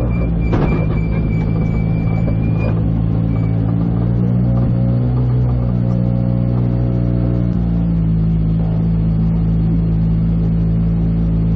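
Škoda Fabia R5 rally car's turbocharged 1.6-litre four-cylinder engine idling steadily while the car stands still, heard from inside the cockpit. A thin high steady tone sounds for about two seconds near the start.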